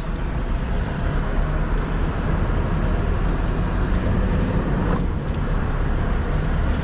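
Scania R620 truck's 16-litre V8 diesel running steadily under way, with an even haze of road noise.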